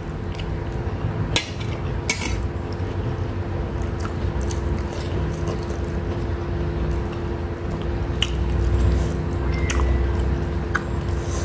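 Close-miked chewing of a mouthful of chicken rice: wet, squishy mouth sounds with a few sharp clicks.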